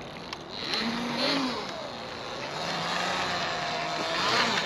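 OSET TXP 24 electric trials bike's motor whining, its pitch gliding up and down with the throttle and climbing near the end, over a steady hiss.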